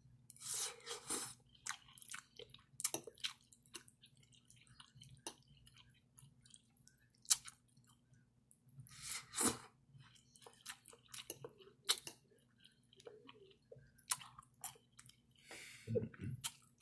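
A person chewing and eating spaghetti with meat sauce: wet mouth sounds and scattered short clicks, some louder bursts about a second in and about halfway through.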